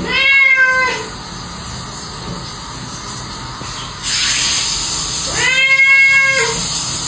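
A pet giving two long, drawn-out, high-pitched cries, one at the start and another about five and a half seconds in. A steady hiss sets in about four seconds in and continues.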